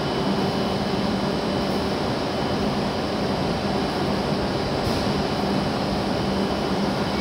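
W7-series Shinkansen train standing at the platform, its equipment giving a steady hum with an even rushing noise and a constant low tone underneath.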